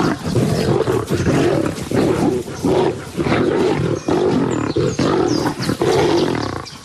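Several lions snarling and growling in a scuffle over a kill, with rough overlapping growls and sharp snarls throughout. It eases off near the end.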